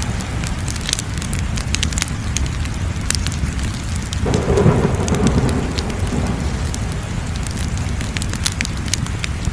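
Crackling fire: a steady low rumble with scattered sharp pops and crackles. About four seconds in, a louder swell of fuller sound rises suddenly and fades over the next couple of seconds.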